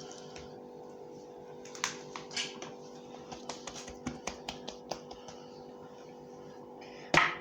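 A run of light clicks and taps as rolled, filled dough is handled on a work surface, with one louder knock near the end, over a faint steady hum.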